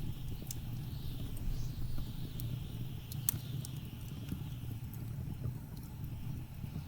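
Wood fire crackling with scattered sharp pops, the loudest about three seconds in, over a steady low rumble and a wavering blizzard wind that swells and fades.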